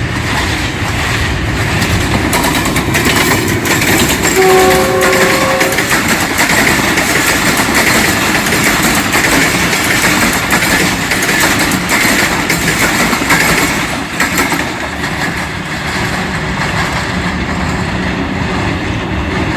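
Passenger train hauled by a ZCU-20 diesel-electric locomotive rolling past, with a steady rumble and clatter of wheels over the rail joints. A short multi-tone horn blast sounds about four and a half seconds in.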